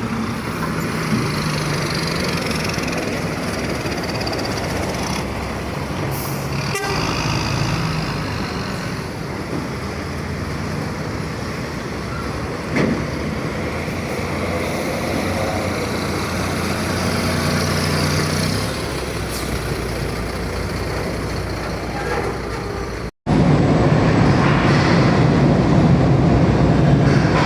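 Mercedes-Benz truck engine running steadily with road noise while driving. Near the end it cuts out for an instant and comes back louder.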